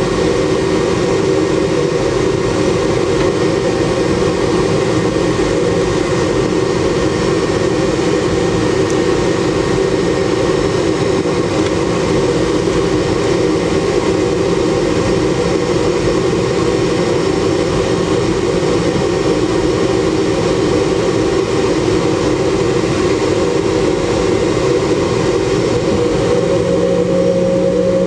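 Boeing 717's Rolls-Royce BR715 turbofan engines heard from inside the cabin, running steadily with a constant hum of several held tones over a rushing noise.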